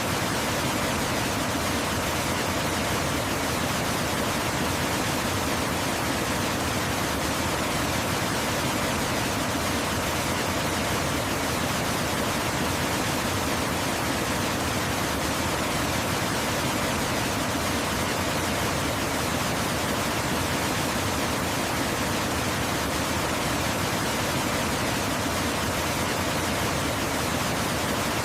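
Waterfall pouring in a steady, unbroken rush of water noise that spreads from low to high pitches and never changes in level.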